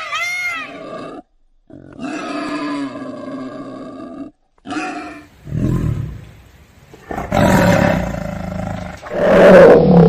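A run of short animal calls cut one after another: a pitched cry in the first half, then several loud, deep roars of a big cat in the second half.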